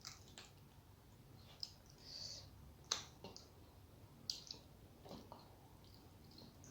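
Quiet eating sounds: scattered soft mouth clicks and smacks of someone chewing, the sharpest about three seconds in.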